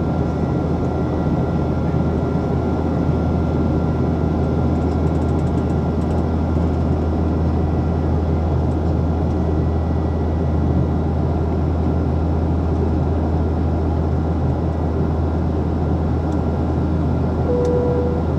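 Steady cabin noise inside a Boeing 737-800 in flight: the drone of its CFM56 jet engines and rushing air, with a deep even hum underneath. A short single tone sounds near the end.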